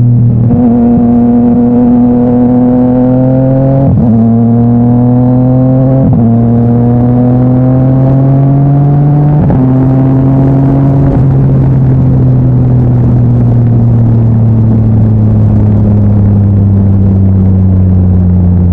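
Yamaha MT-09's inline three-cylinder engine through an Akrapovic titanium exhaust, accelerating up through the gears: the note climbs and drops sharply at each of four upshifts. In the second half it holds a steady note that slowly falls as the bike eases off.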